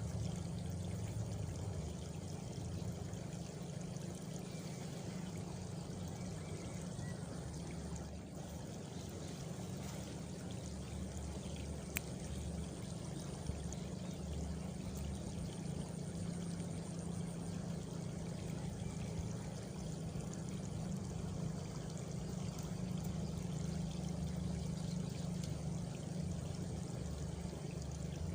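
Countryside ambience of steady running water, with a high, evenly pulsing cricket trill for several seconds around the middle and a single sharp click just before it.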